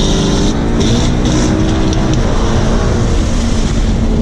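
V8 car engine pulling hard under acceleration, its pitch shifting with a gear change about half a second in, then running steadier.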